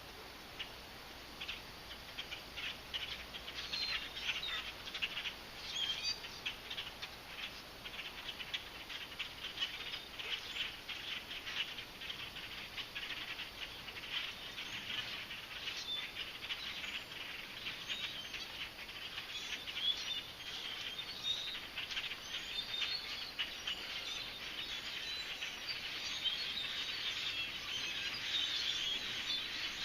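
A large flock of birds calling all at once: a dense, unbroken chatter of short chirps, growing louder toward the end.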